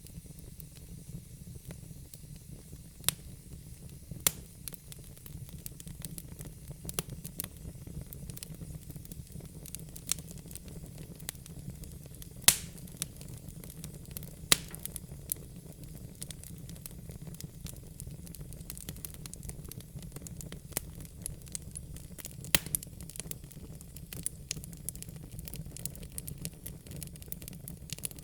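Wood burning in a fireplace: a low, steady rumble of flame with scattered sharp crackles and pops. The loudest pop comes about twelve seconds in.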